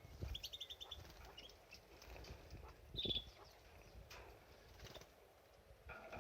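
Pet canary calling: a quick run of high chirps in the first second and one sharp chirp about three seconds in, with soft low thumps alongside.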